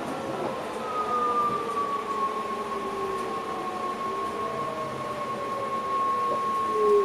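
Electric train's traction drive whining in the driver's cab: a high whine holding steady while lower tones slide slowly down in pitch, over the running noise of the train.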